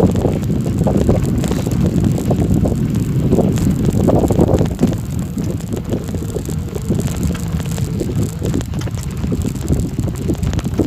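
Bicycle rolling over a gravel forest road, tyres crunching and the bike rattling, with wind rumbling on the microphone. Around the middle the rumble eases a little.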